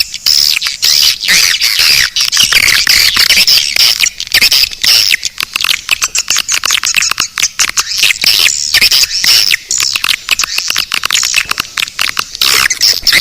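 Swiftlet call track: a dense, unbroken twittering of many swiftlets, rapid high chirps mixed with clicks. It is the kind of lure sound played in swiftlet houses to call the birds in to roost and nest.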